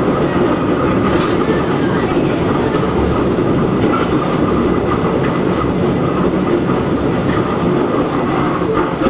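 Hakone Tozan Railway Moha 1 No.106 electric railcar running, heard from on board: the steady running noise of its nose-suspended drive with SE121-A traction motors and gearing, and its wheels on the rails.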